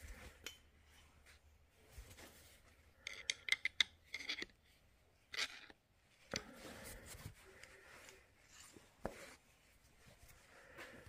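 Faint metallic clicks, clinks and short rubbing scrapes from hand work on a bare 502 big block Chevy engine block with its crankshaft laid in, including a quick run of clicks about three seconds in.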